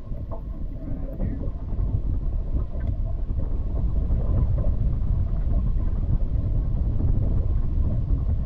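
Wind buffeting the microphone on an open boat: a loud, uneven low rumble, with a faint steady hum underneath.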